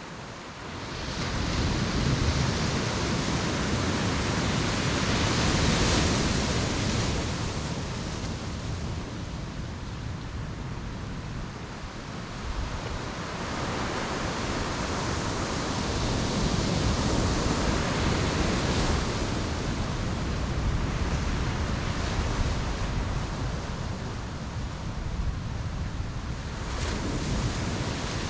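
Sea waves breaking and washing up the shore, the surf swelling and fading in long surges roughly every ten seconds.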